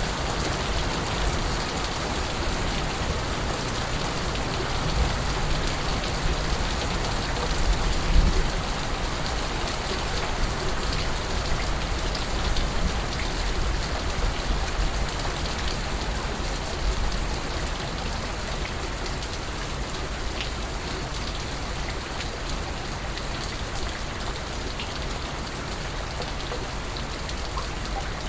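Steady rain falling and pattering on a surface, with fine drips. About a third of the way through, a brief low thump stands out.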